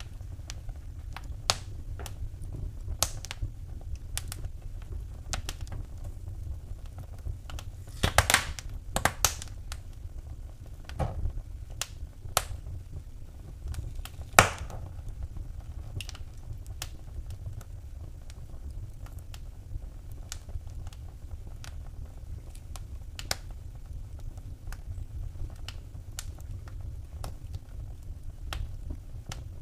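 Wood fire in a fireplace crackling: scattered sharp snaps and pops over a steady low rumble of the flames, with a cluster of louder pops about eight seconds in and one sharp crack a few seconds later.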